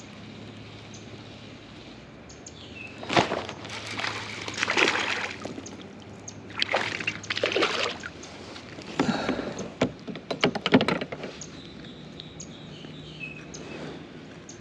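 Kayak paddle strokes: the blades dipping and pulling through the water in a run of splashing, sloshing surges from about three to eleven seconds in, in three groups.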